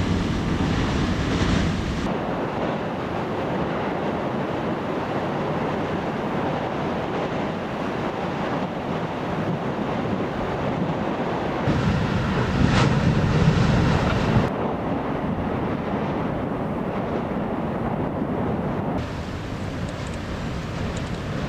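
Loud storm wind blasting the microphone, a steady rushing roar that changes abruptly several times.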